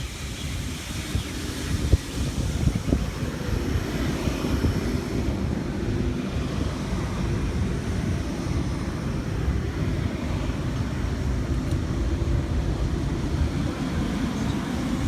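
Sydney Trains electric double-deck suburban train running past at the platform, a steady rumble with a few thumps about two seconds in. Wind buffets the microphone.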